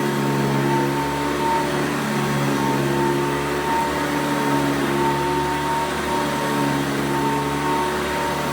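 1991 Hoover Encore upright vacuum cleaner running steadily while vacuuming carpet: an even motor hum with a steady high whine over it.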